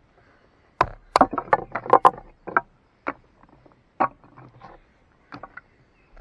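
Firewood being split by batoning, a knife driven through hardwood with a wooden club: a quick run of sharp wooden knocks and cracks, then single knocks about a second apart.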